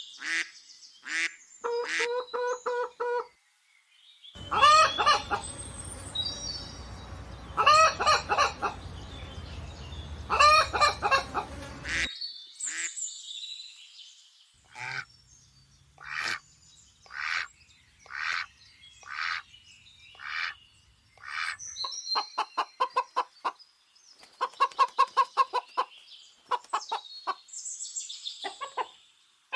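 Domestic fowl calling in several separate recordings, one after another: harsh pitched calls over a background hiss, then single calls about once a second, then quick runs of short repeated notes.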